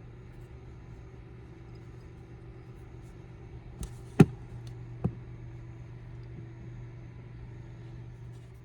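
Steady low hum of a parked car's engine idling, heard from inside the cabin, with three sharp knocks about four to five seconds in, the middle one the loudest.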